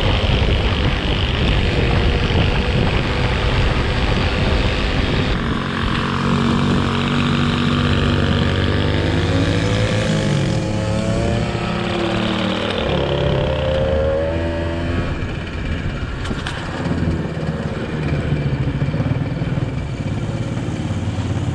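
Small motorcycle engine running, its pitch rising and falling several times in the middle as the throttle opens and closes.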